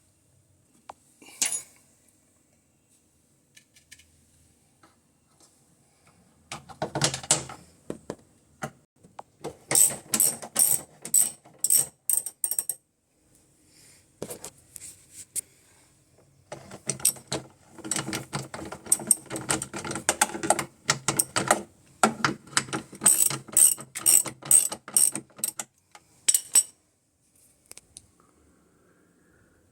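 Rapid ratcheting clicks from a mechanism, in two long runs of a few clicks a second with a pause between them.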